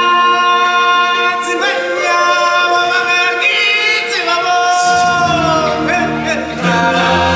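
Live show music: a high solo voice sings long held notes that bend and glide, over a choir and accompaniment. Deep bass notes come in about five seconds in.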